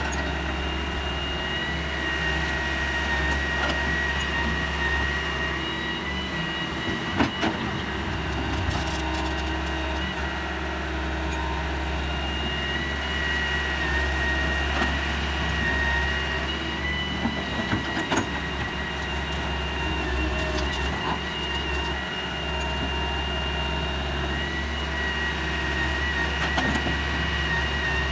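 Heavy diesel machinery running steadily, with a high continuous whine over the low engine hum and a few sharp knocks, the clearest about a quarter of the way in and again past the middle.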